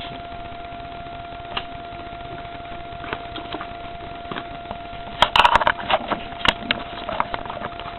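Scattered clicks and knocks from a scale-model toy garbage truck being handled as it picks up a small homemade cardboard dumpster, with a quick burst of rattling clatter about five seconds in.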